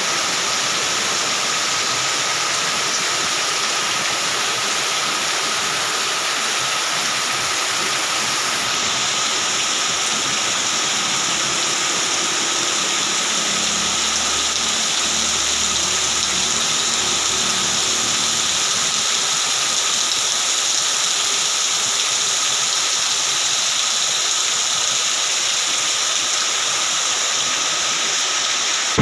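Heavy rain pouring down as a steady, dense hiss.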